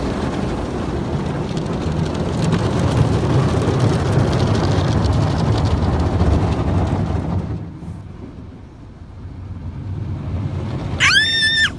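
Automatic car wash spraying water over the car, heard from inside the cabin as a loud, steady rush. It drops away about seven and a half seconds in, then builds again. A child gives a short high-pitched squeal near the end.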